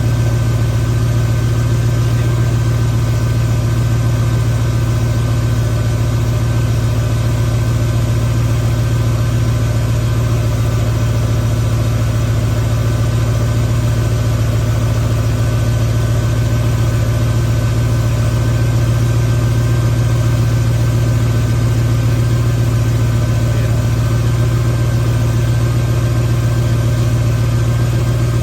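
Ford 351 Windsor small-block V8 idling steadily with a freshly broken-in camshaft, just after its inner valve springs and polylocks have been fitted.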